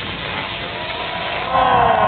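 Crowd noise rising into cheering and whooping about a second and a half in.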